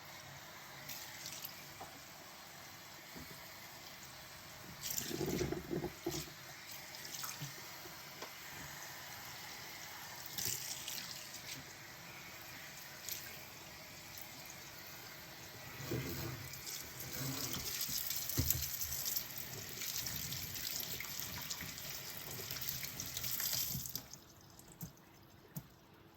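Kitchen tap running into a sink during hand dishwashing, with occasional short clinks and knocks of dishes. The water gets louder past the middle, then stops abruptly shortly before the end.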